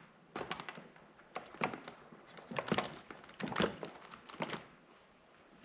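Light clicks and taps from wiring-harness parts being handled on a workbench, in about five short clusters over the first four and a half seconds.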